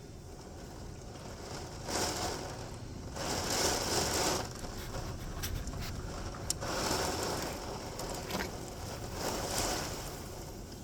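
Torrential rain with gusting wind, a rushing noise that swells and eases several times, with a few sharp ticks of drops or debris striking something.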